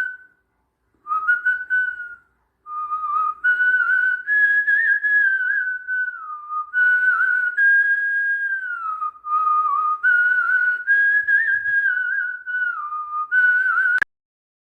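A person whistling a slow tune, in phrases with short breaks, the pitch stepping and sliding between a few notes; it cuts off suddenly near the end.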